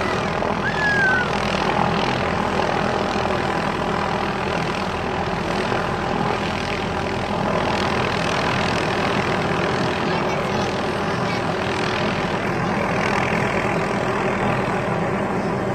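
Helicopter engine and rotor running steadily overhead, a dense constant drone. A brief high squeal sounds about a second in.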